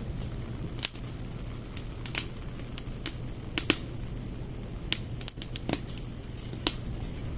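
Firewood burning in a stainless-steel secondary-combustion fire pit, crackling with irregular sharp pops over a steady low rumble.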